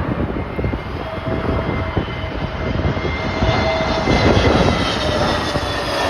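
Jet airliner's engines whining as it flies past on final approach, the whine dropping slightly in pitch near the end, with gusty wind rumbling on the microphone.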